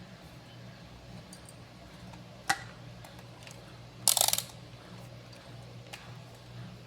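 Washing-machine motor on test, giving a steady low hum, with a sharp click about two and a half seconds in and a brief loud rattling clatter about four seconds in.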